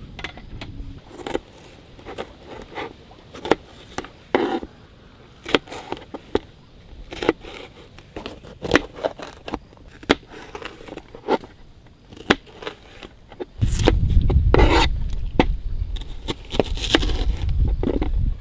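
Irregular scrapes, taps and knocks, one after another at uneven intervals. A low rumble comes in about two-thirds of the way through.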